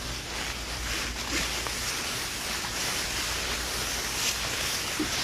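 Steady rushing outdoor noise with a low rumble beneath it, like wind blowing across the microphone, with a few faint rustles.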